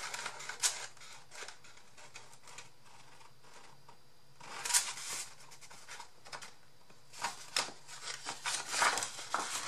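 Cardstock being handled and folded: irregular paper rustling and rubbing as the fold is creased, busiest about five seconds in and again near the end.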